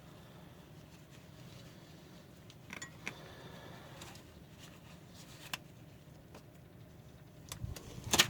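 Faint handling noises from cleaning rusty brake caliper slide pins: a few light clicks and a short scrape, then a sharp knock near the end.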